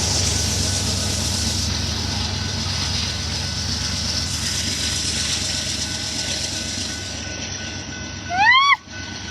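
Steady rumble of a grain train rolling by, easing off slowly, with a short loud chirp that rises and falls in pitch near the end.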